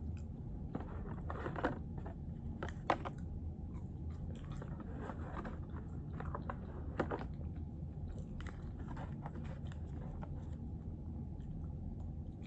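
Close-up chewing and biting of food, wet and irregular, with a few sharper crunchy bites, over a steady low room hum.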